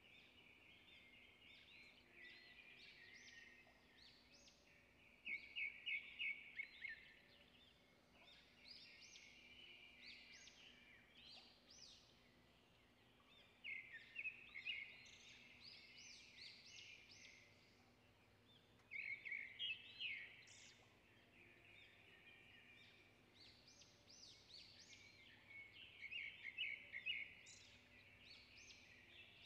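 Small birds chirping: continuous high, quiet chatter with louder bursts of fast, repeated chirps every several seconds.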